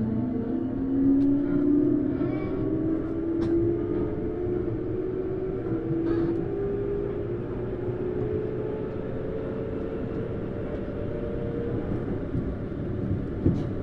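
Hitachi GTO-VVVF inverter and traction motors of a Tokyu Series 9000 train, heard inside a motor car as the train accelerates. Several tones rise together steadily in pitch over a running rumble, then fade out near the end.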